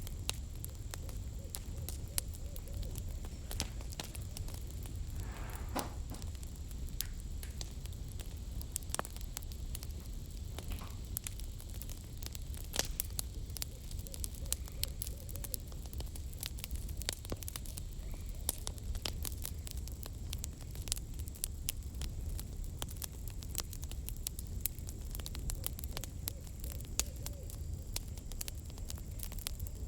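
Wood campfire crackling, with many small sharp pops at irregular intervals over a steady low rumble of the burning fire.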